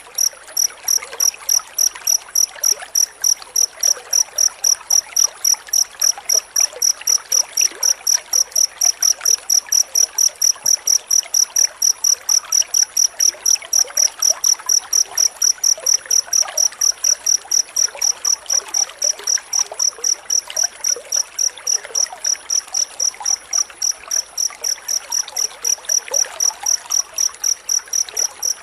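Cricket chirping steadily in a dense, even run of short high-pitched chirps, about three to four a second without a break.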